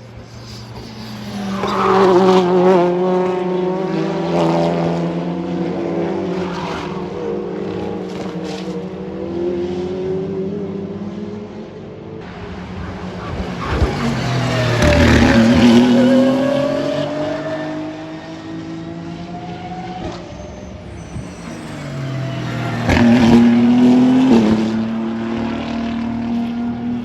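Racing cars passing at speed on a circuit, three loud passes about two, fifteen and twenty-three seconds in, with the engine notes rising and falling in pitch as they go by.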